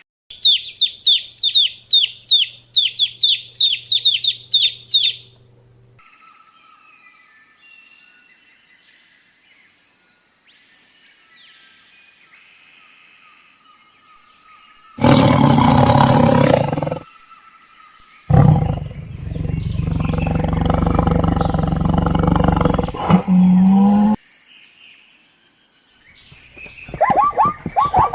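A series of animal calls: a rapid run of high chirping calls, about three a second, for the first five seconds; then, after a long faint stretch, two loud low calls, the second lasting several seconds; and near the end the start of another quick run of calls.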